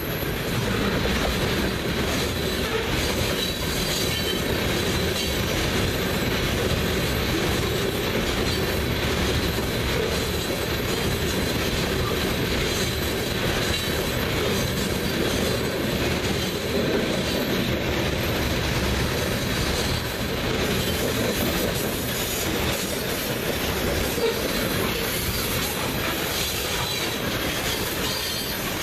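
Freight train cars (covered hoppers, then tank cars) rolling past close by: a continuous rumble and rattle of steel wheels on the rails, with a faint steady high wheel squeal.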